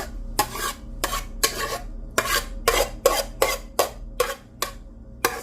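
A spoon scraping and knocking against a pot, scooping up filling, in quick repeated strokes about two a second that thin out near the end.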